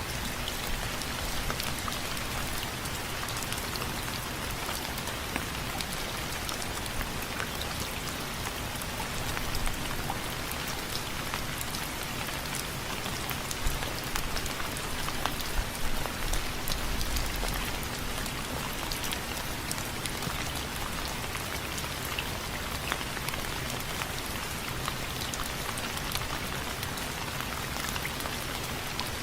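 Steady rain falling on a window frame, a constant hiss dense with sharp ticks of single drops striking. A short low rumble comes a little past halfway.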